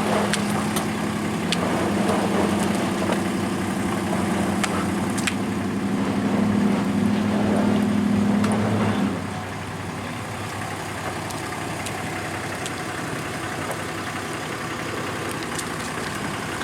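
An engine runs steadily with a strong low hum. About nine seconds in the hum drops away suddenly, and a quieter engine keeps idling.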